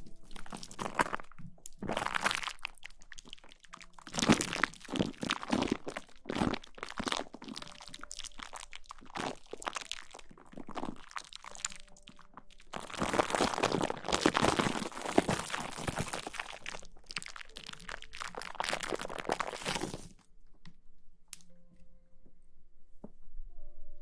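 Close-miked ASMR rustling and rubbing on the microphone, in dense uneven bursts that stop about twenty seconds in.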